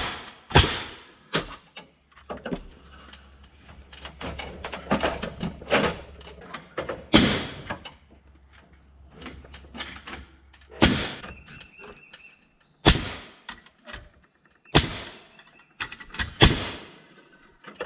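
Nails being driven into framing lumber: a series of sharp, loud strikes at irregular intervals about one to two seconds apart, with lighter knocks between them.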